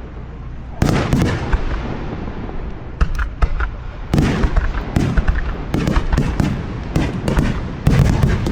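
Aerial fireworks going off in a rapid string of sharp bangs and booms. They begin about a second in and grow dense from about four seconds in.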